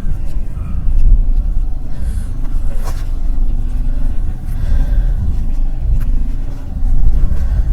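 Strong wind buffeting the microphone: a loud, uneven low rumble that swells and drops.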